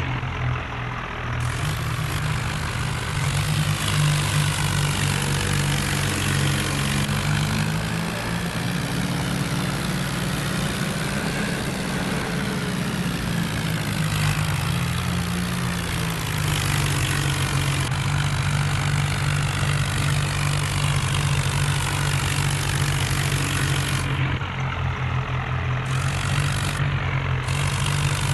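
Tractor diesel engine running steadily, its engine speed rising and falling slightly.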